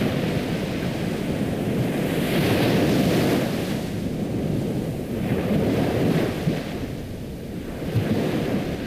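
Ocean surf: waves washing in and drawing back in slow, swelling surges.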